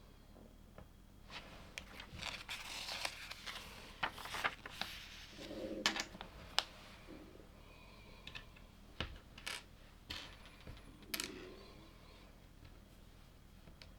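LEGO plastic pieces being handled while building, with rustling and scattered sharp clicks as bricks are picked up and pressed together.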